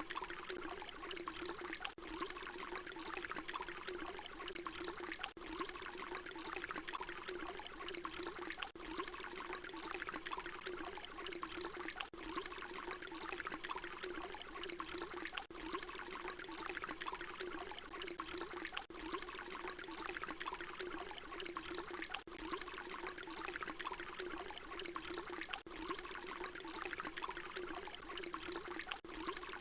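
Water pouring in a steady continuous stream, with a brief dip about every three and a half seconds where the short recording loops.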